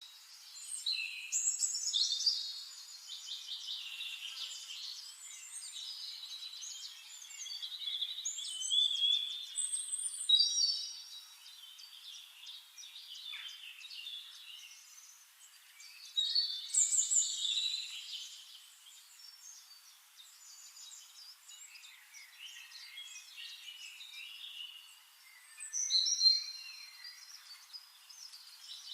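Several songbirds singing, with overlapping whistled phrases and fast trills. The song swells into louder bursts four times and fades back to softer chirping between them.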